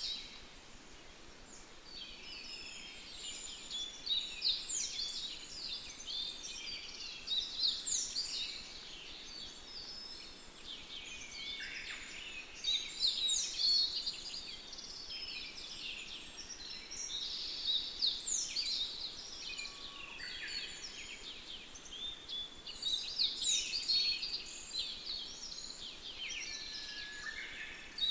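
Several songbirds chirping and singing together, with a louder burst of song returning every four to five seconds.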